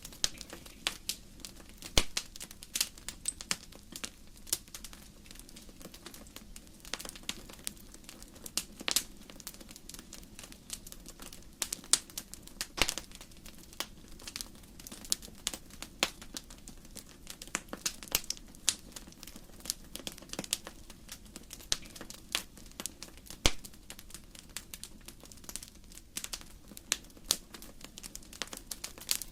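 Wood fire in a fireplace crackling: burning logs give off a constant run of irregular snaps and pops over a low steady hiss, with a few louder pops.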